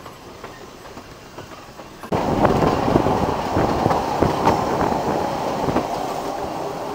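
Narrow-gauge railway carriage rolling along, heard from inside the coach: wheels clicking and knocking over rail joints under a steady rumble of running noise. It is quieter at first, then much louder from about two seconds in.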